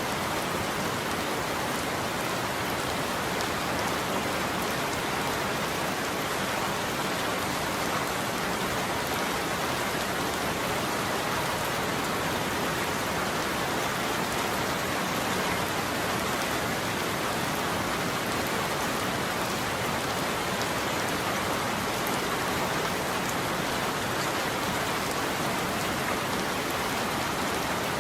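Steady heavy rain falling on a surface, an even hiss with no thunder.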